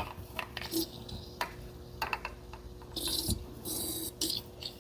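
Light clicking and mechanical rattling as a Briggs & Stratton 3.5 hp lawnmower engine is pulled over by hand with its spark plug out, working penetrating oil through the cylinder. Two short hisses come a little past the middle.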